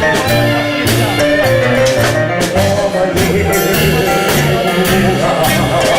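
Live vocal-instrumental band playing an old-fashioned tango, an instrumental stretch with a steady, repeating bass line under sustained melody notes.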